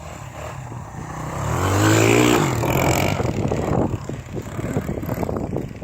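Honda XR100 dirt bike's four-stroke single-cylinder engine revving up to its loudest about two seconds in, then easing off, as the bike is ridden through snow.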